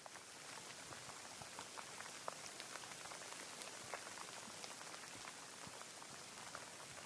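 Steady rainfall, an even hiss with many individual drops striking sharply and distinctly close by, swelling over the first second and then holding steady.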